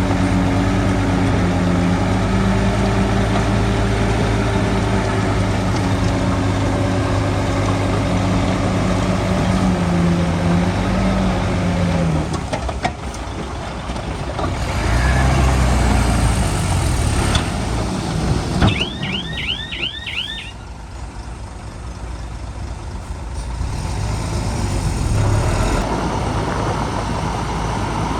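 Heavy diesel engines of earthmoving machinery running, the note steady at first and shifting in pitch under load about ten seconds in, then dropping away. A quick run of high chirping beeps sounds briefly about two-thirds of the way through.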